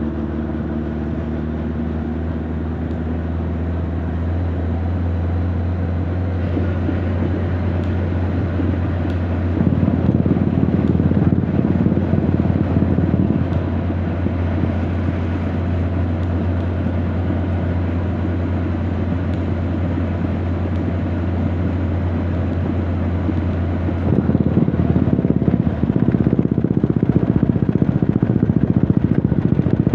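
Honda CB1300 Super Bol d'Or's inline-four engine and exhaust running under way, picked up from the rider's back. The note holds steady, then gets louder as the throttle opens about ten seconds in, and again for the last few seconds.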